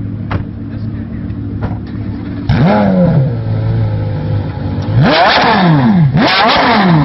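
Straight-piped Porsche Carrera GT's 5.7-litre V10 idling, then revved three times: a short blip about two and a half seconds in and two longer revs near the end, each rising in pitch and falling back to idle.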